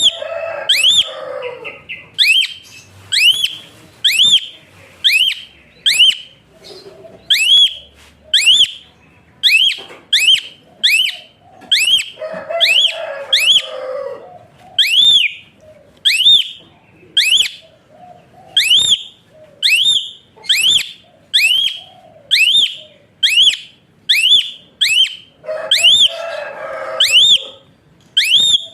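Pied starling (jalak suren) giving loud, whistle-like calls about once a second, each note sweeping sharply up and then dropping. Three times the whistles are joined by a couple of seconds of harsher, lower chattering.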